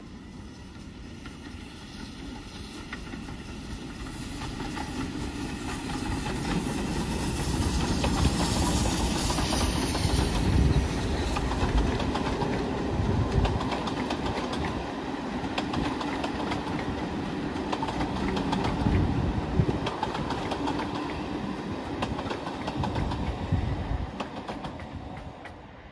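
A passenger train approaching and passing close by. The rumble of the wheels builds over the first several seconds, then the coaches clatter over the rail joints as they go past, and the sound fades near the end.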